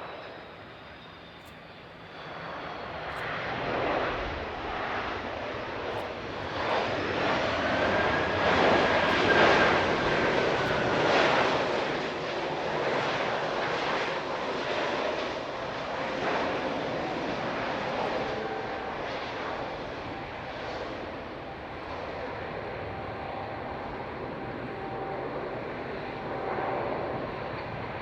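Jet airliner passing close by, its engine noise growing from about two seconds in to a peak around nine to eleven seconds, with a faint whine over it, then easing to a steady level.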